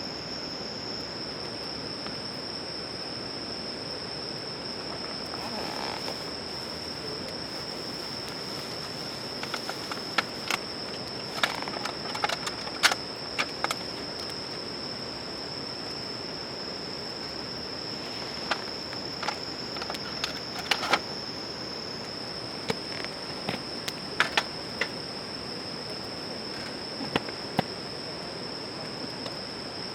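Insects chirring in one steady high trill, with sharp crackles and snaps from the campfire's burning wood coming in clusters from about a third of the way in.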